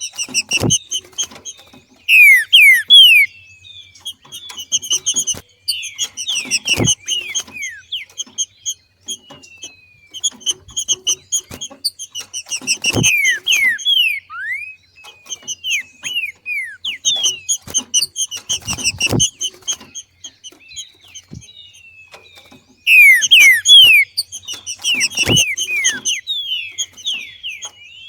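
Green-winged saltator (trinca-ferro) making its excited 'macheado' calling: repeated bursts of rapid sharp chirps and downward-slurred whistled notes, loudest about two seconds in and again near the end. A dull low thump comes about every six seconds.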